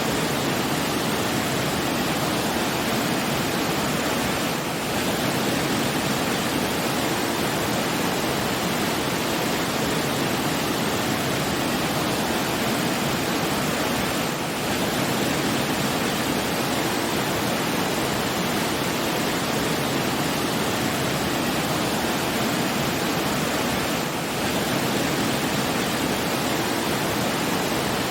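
Steady rushing water, like a waterfall or fast stream, an even unbroken noise with brief slight dips about every ten seconds.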